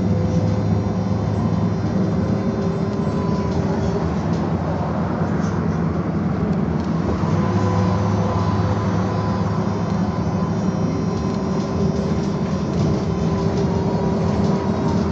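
Belkommunmash BKM-221 trolleybus riding along, heard from inside: a steady rumble of tyres and road with the whine of its electric traction drive, whose tones drift slightly in pitch as the speed changes.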